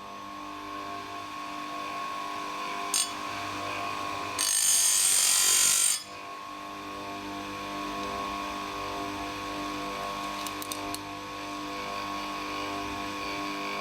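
Oregon bench chain grinder running with a steady motor hum. About four seconds in, the grinding wheel bites into a chainsaw cutter tooth: a loud, harsh grind lasting about a second and a half that stops sharply. A few light clicks are heard before and after it.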